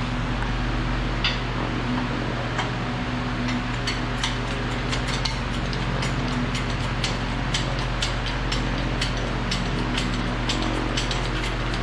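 Shop fan running steadily, a constant hum and rush of wind noise on the microphone, with many light, irregular clicks and taps over it from about three seconds in.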